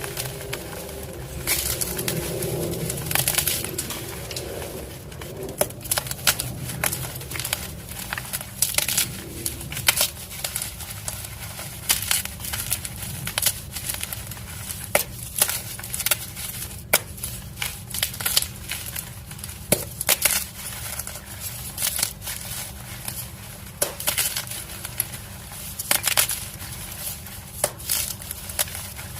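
Dyed gym chalk blocks being crushed: a continuous run of crisp, irregular crunches and crumbling crackles, with some sharper snaps standing out.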